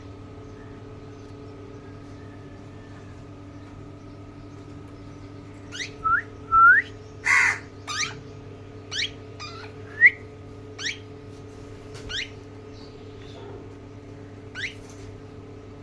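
Bird calls: a string of about ten short, sharp rising whistles spread over the second half, with one loud harsh squawk about seven seconds in.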